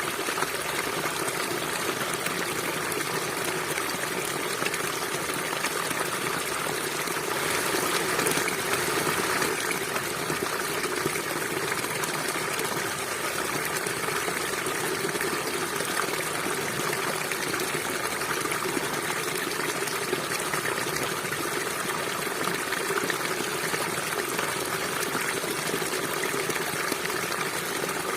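River water flowing steadily, a continuous rushing that swells a little for a couple of seconds about eight seconds in.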